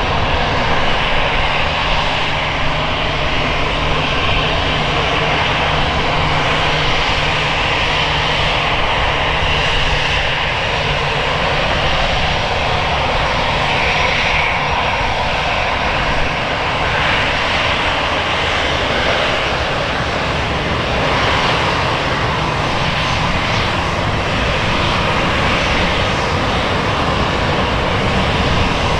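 Airbus A321 jet airliner's engines running loud and steady, a dense rushing noise with no clear rise or fall, and a low hum underneath for the first few seconds.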